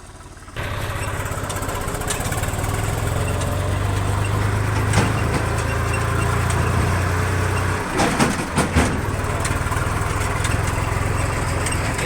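Swaraj tractor's diesel engine running steadily, growing suddenly louder about half a second in. Around eight seconds its note dips briefly, with a few sharp knocks, then it runs on as before.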